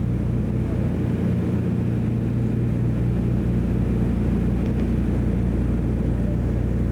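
Steady drone of a Douglas DC-3's twin Pratt & Whitney R-1830 radial piston engines in cruise, heard from inside the cabin, a constant low hum that holds one pitch throughout.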